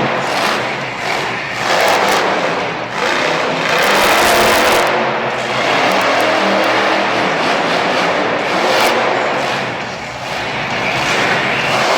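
Monster truck's supercharged V8 running hard, the revs rising and falling, loud throughout.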